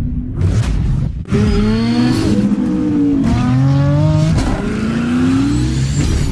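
Car engine revving, its pitch rising and falling several times, with a brief drop-out about a second in.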